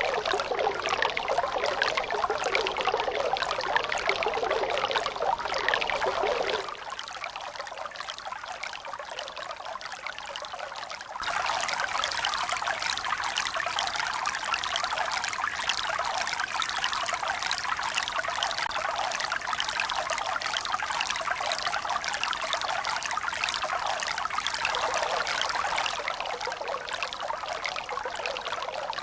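Running water trickling and pouring steadily, like a small stream. It drops suddenly to a quieter, thinner flow about six and a half seconds in and comes back just as suddenly about four seconds later.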